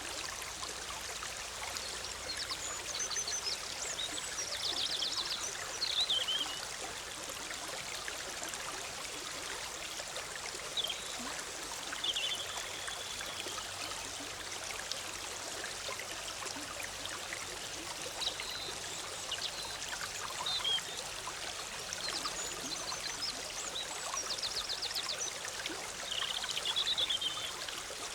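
Forest stream bubbling and trickling steadily over rocks, with a songbird singing: a short trilled phrase a few seconds in, a brief whistle midway, and the same phrase again near the end.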